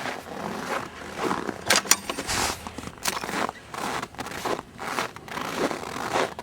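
Irregular crunching and scraping in deep, fresh snow, roughly one crunch a second, with a few sharp clicks about two seconds in.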